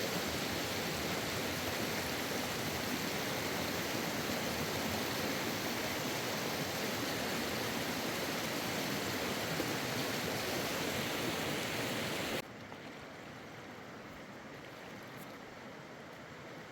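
A steady, even rushing noise that drops suddenly to a much quieter hiss about twelve seconds in.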